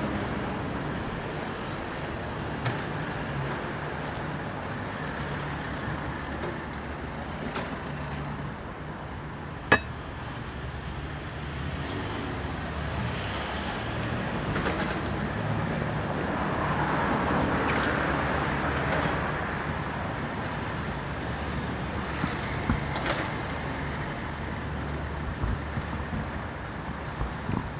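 Street traffic: a steady rumble of passing cars and other vehicles, swelling as a vehicle goes by about two-thirds of the way through. One sharp click stands out a little before the middle.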